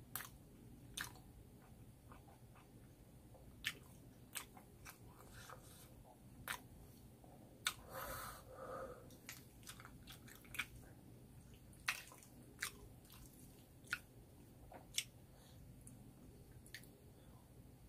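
A person chewing a mouthful of spicy tteokbokki rice cakes and noodles close to the microphone, with scattered sharp wet mouth clicks and smacks and one longer noise about eight seconds in.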